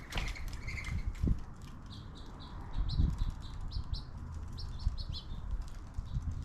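Small birds chirping, a run of short high chirps in the middle, with a few low thumps and flutters.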